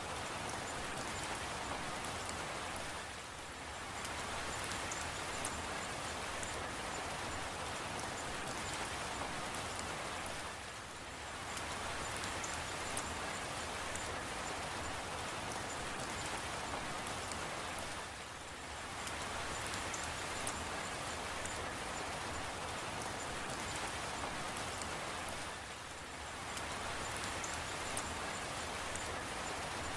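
Steady rain falling, with fine scattered drop ticks, the level dipping briefly about every seven and a half seconds.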